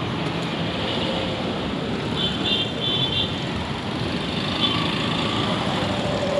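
Steady road traffic noise of passing vehicles, with a couple of brief high-pitched tones about two to three seconds in.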